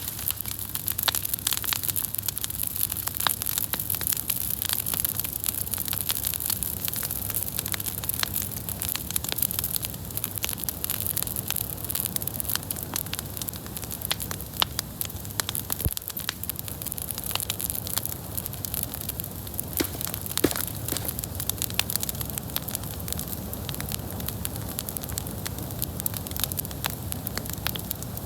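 Wood bonfire crackling, with frequent sharp pops and snaps over a steady hiss.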